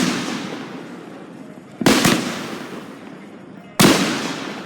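Fireworks exploding: three loud bangs about two seconds apart, each trailing off in a long echoing rumble.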